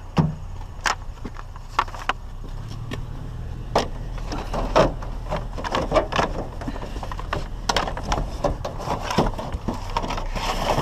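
Irregular knocks, clacks and rustling of scrap being handled and pulled about while Cat 5 network cable is dug out of a pile, over a low steady rumble.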